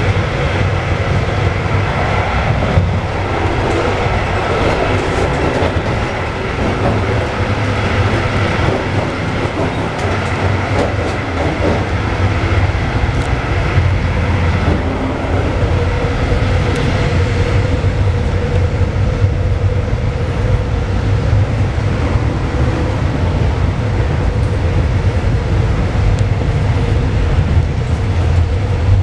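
Running noise inside an older compartment-type passenger coach: a steady low rumble of wheels on rails with scattered clicks and rattles. A steady mid-pitched hum joins about halfway through.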